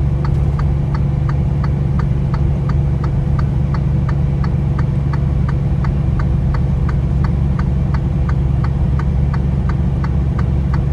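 Semi-truck engine running steadily at road speed, heard from inside the cab, with a faint regular ticking of about three clicks a second.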